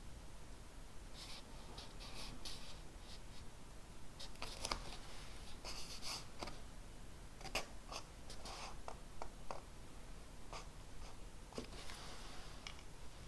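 Handwriting on paper: short runs of scratchy strokes, with a few sharp taps in between.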